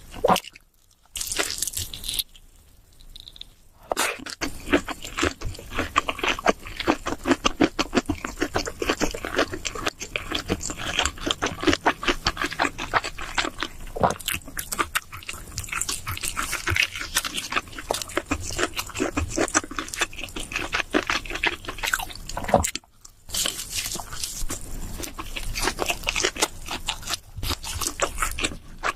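Close-miked chewing of cheese seafood pizza: continuous wet mouth smacks and crunching bites, with a few brief pauses.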